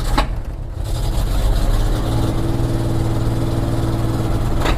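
The AMC 401 V8 of a 1976 Jeep J10 running steadily under load, a little louder after about a second, with a huge passenger-side exhaust leak where the collector gasket is gone. There is a sharp crack just after the start and another near the end.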